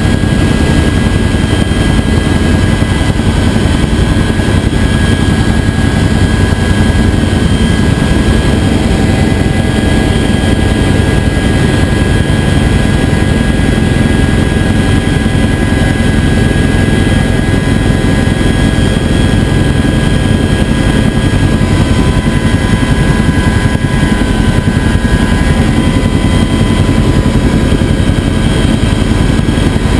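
Bell UH-1 Huey helicopter running steadily: a fast low rotor beat with the steady whine of its turbine engine above it.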